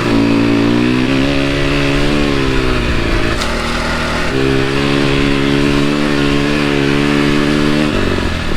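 KTM 250 four-stroke dirt bike engine running under throttle, its note holding steady between a few sudden steps in pitch.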